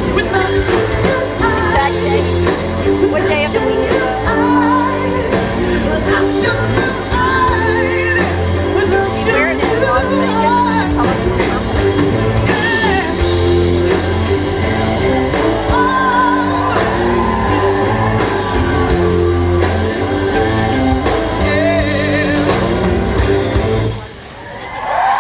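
Live pop-rock performance over a loud sound system: male lead vocal with wavering, sustained lines over a steady bass, drums and guitar. The song stops abruptly near the end.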